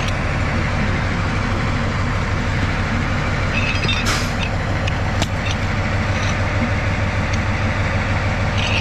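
Narrow-gauge TU7A diesel locomotive's engine idling steadily, a low even drone, with a couple of short sharp clicks about midway.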